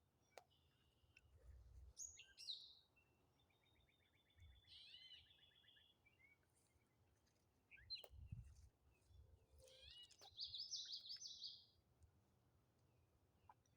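Faint songbirds singing in short, scattered phrases: a chattering trill about three seconds in, a few sharp calls about eight seconds in, and a busier song phrase a little after ten seconds.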